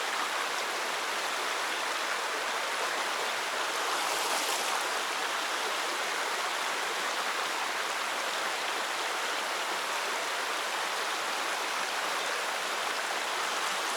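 Mountain creek water rushing over rocks in a steady, unbroken wash of noise.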